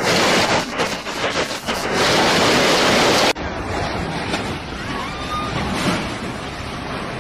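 Loud, steady rushing noise of wind or surf buffeting a microphone. About three seconds in it cuts off abruptly to a quieter, thinner rush.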